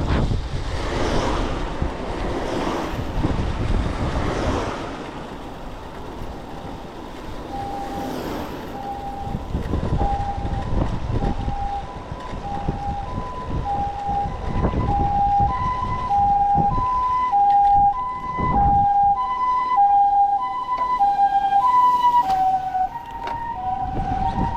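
Two-tone hi-lo ambulance siren approaching, alternating between two pitches about every half second and growing louder. It drops slightly in pitch near the end as it passes. Gusty wind on the microphone comes before it.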